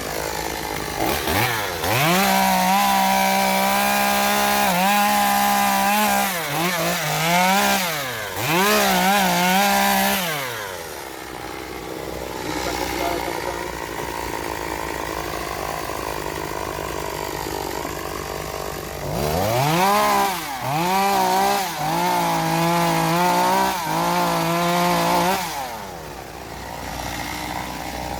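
Small two-stroke chainsaw revved up to full speed and dropped back several times, with a stretch of lower idling in the middle, as it is being tuned up.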